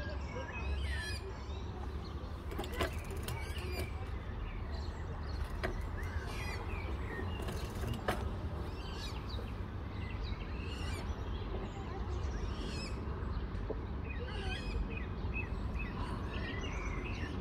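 Birds chirping and calling, short sweeping calls every second or so, over a steady low rumble, with a couple of sharp clicks.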